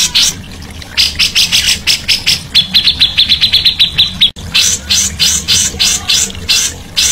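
Songbird singing a loud string of quick, sharp repeated chirps, with an even trill of about ten notes a second in the middle; the sound cuts out for an instant just after halfway.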